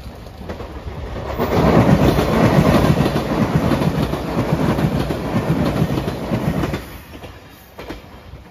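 JR Shikoku 8000 series electric limited express train passing close by, its wheels clacking in a fast rhythm over the rail joints. The sound builds over the first second or so, stays loud, and drops off sharply near the end.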